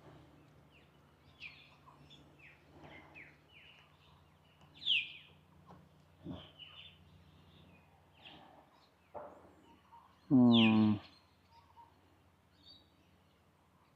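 Birds chirping and calling on and off: many short, high chirps, one louder chirp about five seconds in, and a loud, brief call about ten seconds in.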